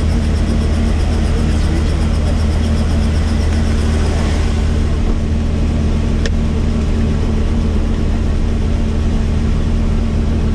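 Helicopter running: a loud, steady low drone from the rotor and engine, with a short sharp click about six seconds in.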